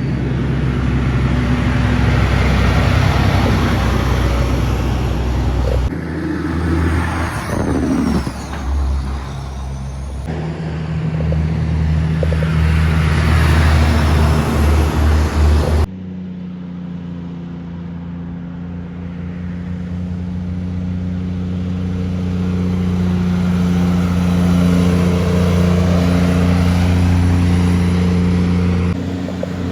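Heavy diesel truck engines, likely Kenworth cabovers, running and driving past in a few short cut-together roadside clips. One passes with its pitch sliding a few seconds in. From about halfway through, a steady engine note slowly grows louder as a truck approaches.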